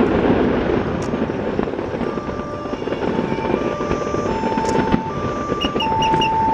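Fireworks display rumbling continuously from many overlapping bursts, with a few sharp cracks. Several held whistle-like tones alternate between two pitches through the second half, and a quick run of four high pips comes near the end.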